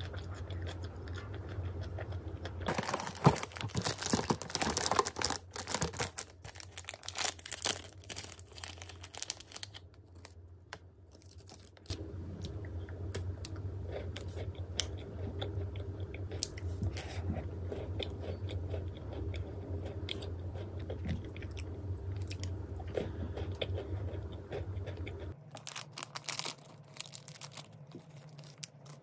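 Close-miked eating: crisp crunching bites and chewing of food. A burst of crunching comes a few seconds in, softer chewing follows, and more crunches come near the end.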